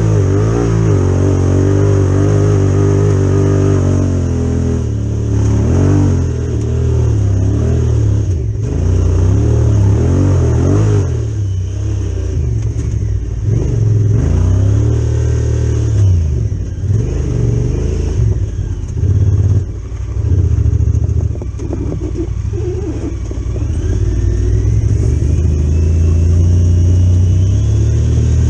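Honda Pioneer 1000 side-by-side's parallel-twin engine running loud through an HMF aftermarket exhaust, its engine speed rising and falling over and over as it is driven.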